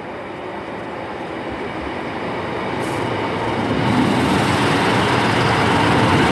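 A Class 153 single-car diesel multiple unit runs into the station, its engine and wheels growing steadily louder as it approaches.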